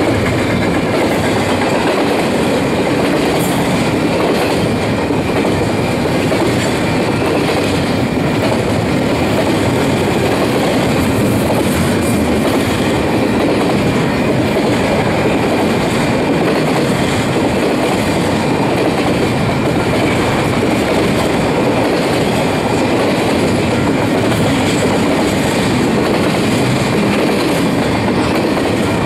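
Double-stack intermodal freight train's loaded well cars rolling past on steel wheels, a steady, unbroken rumble and clatter of wheels on rail.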